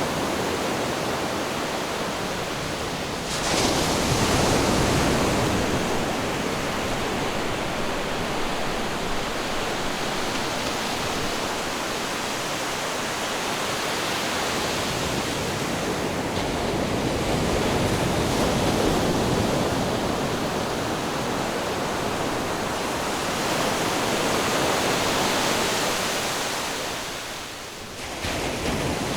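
Ocean surf: a continuous rush of waves that swells louder about three seconds in and again near the end, then drops away briefly and comes back in suddenly.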